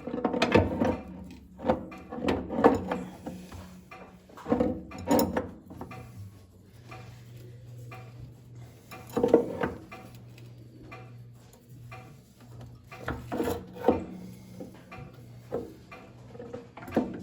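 Irregular knocks, clunks and scrapes of parts and tools being handled at a workbench, over a faint steady low hum.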